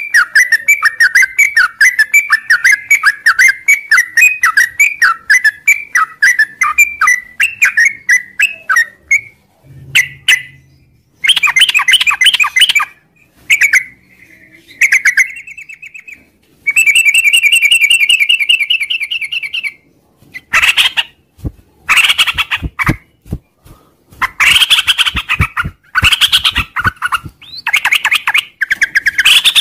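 Yellow-vented bulbul (trucuk) singing a long, continuous chattering song: a run of fast repeated notes, then broken phrases, a rapid high trill about halfway through, and harsher scratchy bursts near the end.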